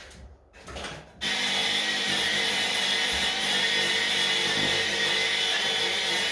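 A power tool fitted with a steel wire brush starts up about a second in and runs steadily, scouring a stone wall. It is preceded by a couple of short scrapes.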